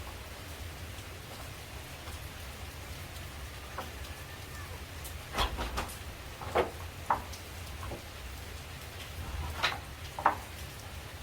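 Steady rain falling, with drops running off leaves, and a scattering of louder short drips or taps, several about halfway through and a couple more near the end.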